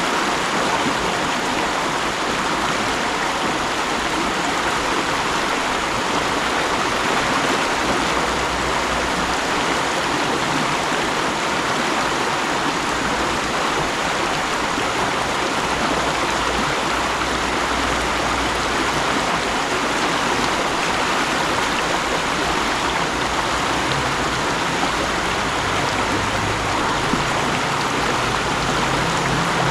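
Mountain stream rushing steadily over rocks, a constant water noise. In the last few seconds a low engine hum comes in under it.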